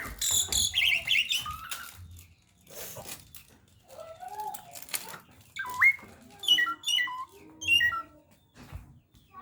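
Jalak (starling) calling: a few clicks and short rising chirps at first, then a run of about four whistled notes with sharp jumps in pitch, a few seconds in.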